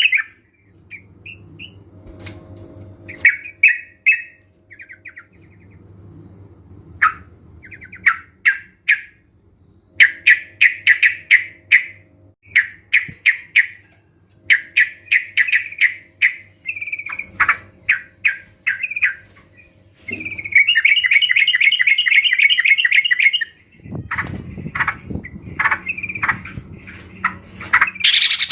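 A group of young yellow-vented bulbuls (trucukan) calling, played as a lure recording: short, bubbly chattering phrases come one after another with brief gaps. About two-thirds of the way through there is a longer unbroken run of chatter of about three seconds, over a faint low hum.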